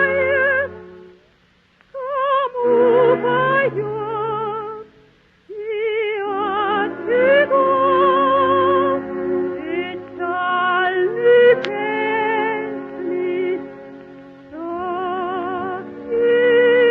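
Coloratura soprano singing with wide vibrato, sustained high notes and swooping runs, over a soft orchestral accompaniment, on an old broadcast recording; two short pauses come in the first six seconds.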